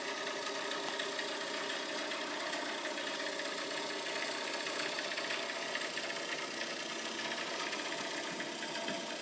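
Vaillant VC 254/2 XEH gas wall-hung boiler running with a steady, continuous rattling, crackling noise. The owner suspects either boiling noises in the heat exchanger, because the boiler cannot carry its heat away, or a rattling circulation pump.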